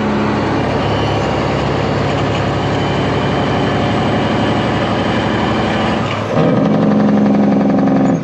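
Heavy truck's Detroit Diesel engine running under way, heard from inside the cab with the windows up. About six seconds in, the engine note changes and gets louder and fuller.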